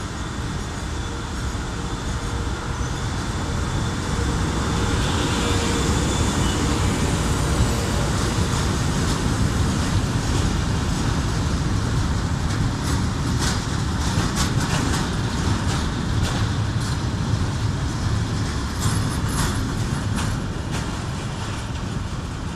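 Train hauled by an FS E464 electric locomotive passing close by: a steady rumble of wheels on rails that grows louder a few seconds in. In the second half come many sharp wheel clicks over the rail joints, and the sound eases near the end.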